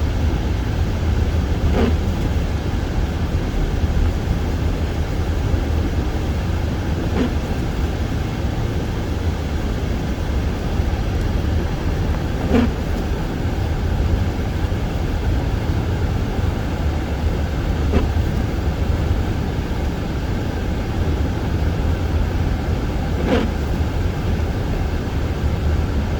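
Car driving on a snow-covered, unplowed road at about 30–35 mph, heard from inside the cabin: a steady low rumble of tyres and engine. A brief sound recurs about every five seconds.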